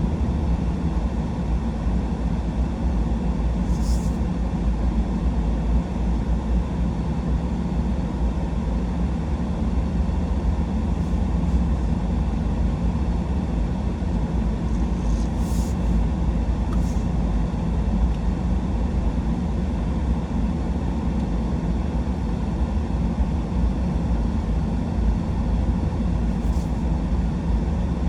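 Steady road and engine noise inside a moving truck's cab, a low even rumble, with a few faint, brief high ticks.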